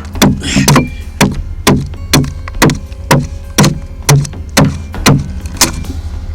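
Steady hand chopping into the ponderosa pine wood of a dugout canoe with a carving blade, sharp strikes about two a second, chipping wood out from under the gunwale to open up the hull.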